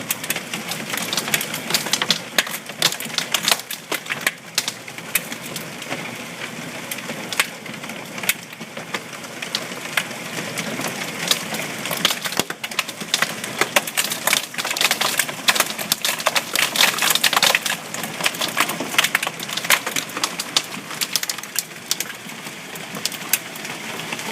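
Hailstones pelting hard surfaces in a hail storm: a dense, rapid clatter of sharp clicks and cracks over a steady rain-like hiss, heaviest a little past the middle.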